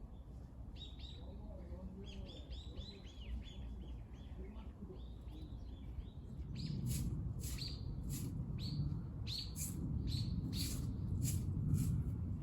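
Small birds chirping in quick repeated short calls, then, about halfway through, a louder run of irregular crisp crunching or rustling clicks takes over.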